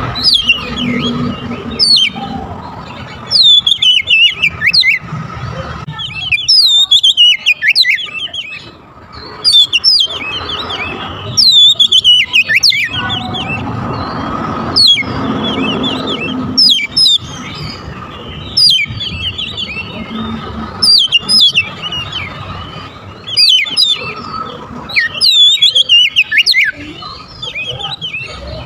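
Oriental magpie-robin (kacer) singing in repeated bursts of quick, falling whistled chirps, with short pauses between phrases, from a lure-call recording used to draw in other kacer. A steady faint hum and low rumble run underneath.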